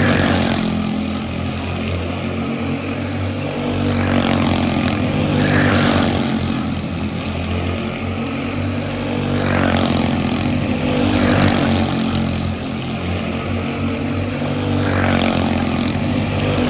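Small go-kart racing engines running laps, a steady buzzing hum that swells and fades every few seconds as the karts come around the track.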